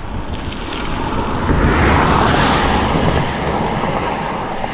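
A fast vehicle passing the cyclist on the road: a rush of tyre and engine noise that swells to a peak about two seconds in and then fades, over wind buffeting the microphone.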